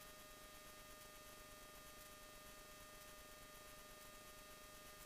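Near silence: a faint, steady hiss with a thin electrical hum.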